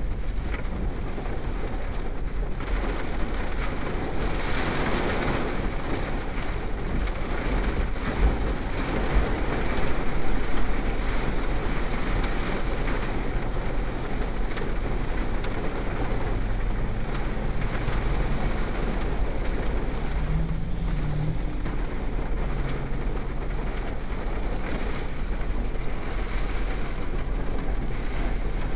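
Heavy rain pelting the roof and windows of a car, heard from inside the cabin as a steady hiss that swells louder about ten seconds in.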